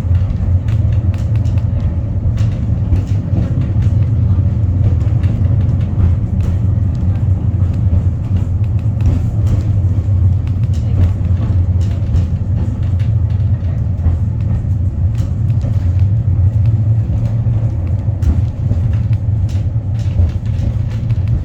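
Wellington Cable Car funicular running up its track, heard on board: a steady low rumble from the wheels and hauling gear, with faint scattered clicks.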